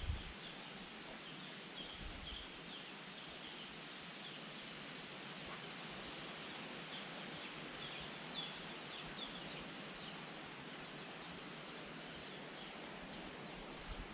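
Rainforest ambience: a steady hiss with many short, high chirps of small birds scattered through it.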